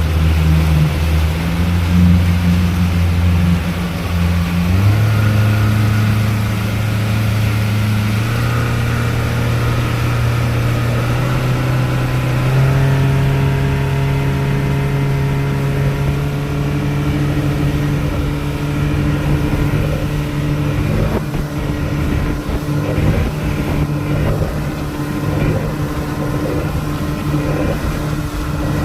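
Speedboat engine running under way, its pitch stepping up several times in the first half as the throttle changes, over the rush of water and wind. In the second half, scattered knocks and thuds from the hull slamming into waves.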